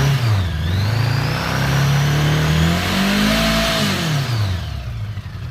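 1979 Honda GL1000 Gold Wing's flat-four engine being revved: a quick blip that falls back at the start, then a slower rise in revs held for about a second before dropping back to idle near the end. It sounds pretty good.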